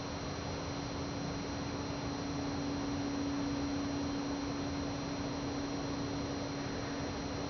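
A steady low hum, one held tone, over an even hiss, with no knocking.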